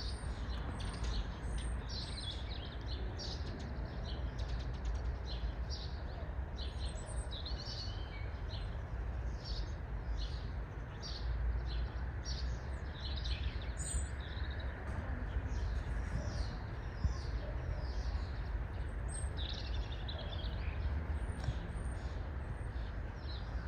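Small birds chirping and singing steadily, many short rapid calls overlapping, over a steady low background rumble.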